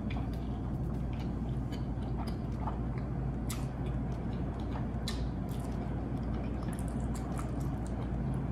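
Wet, messy chewing and lip smacks of a mouthful of noodles in creamy sauce, eaten by hand, as a scatter of short sharp smacks over a steady low hum.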